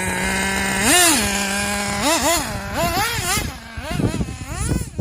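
XRAY RC buggy's small nitro engine running at a steady high-pitched idle, revved once about a second in, then blipped up and down in a quick run of short revs over the last three seconds.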